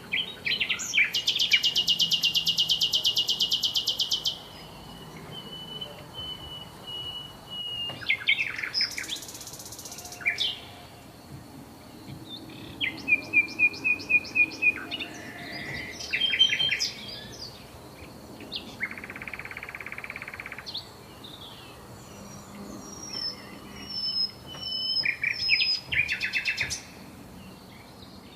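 Several songbirds singing and calling. About a second in there is a loud, fast trill lasting about three seconds. Thin whistled notes and bursts of quick repeated chirps follow through the rest.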